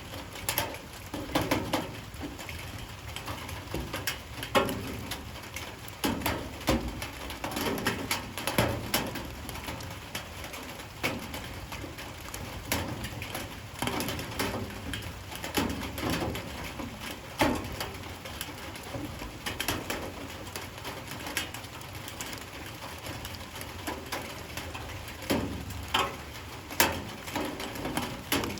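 Light rain falling, with irregular sharp taps of drops striking a hard surface. A bird calls now and then.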